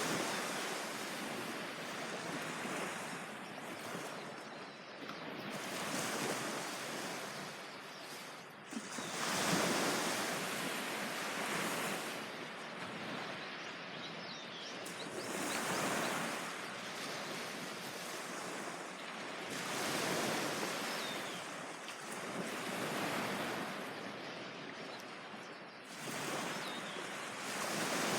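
Sea waves breaking and washing onto a beach, each surge swelling and falling away every three to four seconds.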